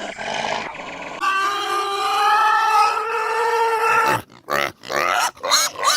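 Animal calls: one long, steady pitched call, then a quick run of short calls that rise in pitch.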